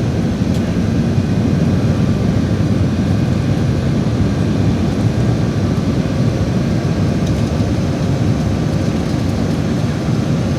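Airbus A319-112 jet cabin noise during the takeoff departure: a steady low rumble of engine and airflow that holds level throughout.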